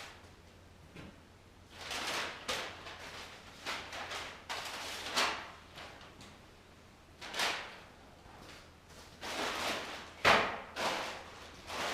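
Irregular knocks, bumps and scraping noises, one every second or two, some with a sharp start and a short rasping tail, the sharpest about 7 and 10 seconds in.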